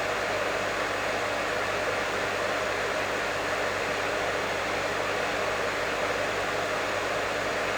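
Professional hair dryer running steadily: an even, unchanging rush of air with a faint low hum from the motor.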